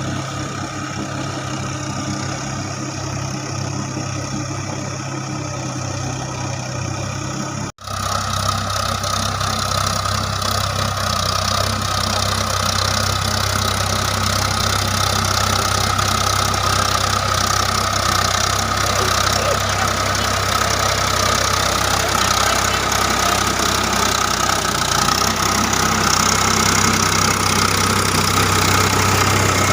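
Tractor diesel engine running steadily while working a rotavator. About eight seconds in the sound breaks off for an instant and comes back louder, with a steady high whine over the engine.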